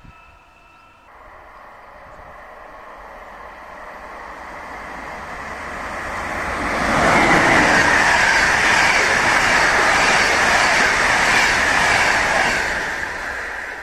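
EuroCity train of České dráhy coaches hauled by a class 193 Vectron electric locomotive, approaching and passing through on the main line. Its wheel rumble and rail hiss build steadily for several seconds, stay loudest for about five seconds as the locomotive and coaches go by, and begin fading near the end.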